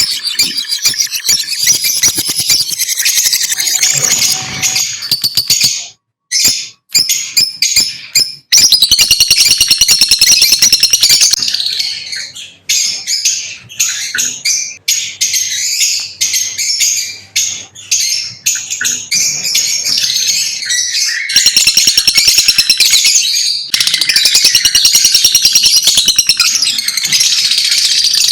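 Lovebirds chirping and chattering in a dense, rapid stream of shrill, high-pitched calls, broken by a few short pauses in the first third and again late on.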